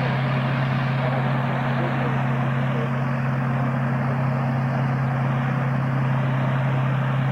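A World War II piston-engined fighter running as it passes low in front of the crowd: a steady low engine drone with a strong even hum and a wash of propeller and exhaust noise.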